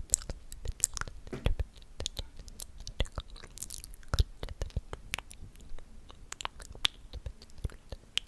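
ASMR mouth sounds: a string of wet clicks and smacks, several a second at an uneven pace.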